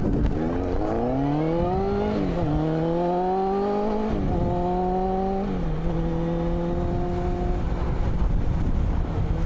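Suzuki Katana GSX600F's inline-four engine accelerating through the gears: the engine note climbs, drops at upshifts about two and four seconds in, then settles into a steady cruise. Wind rush runs underneath throughout.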